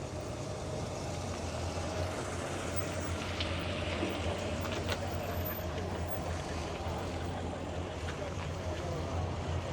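Steady low rumble of a vehicle engine running, with faint background chatter.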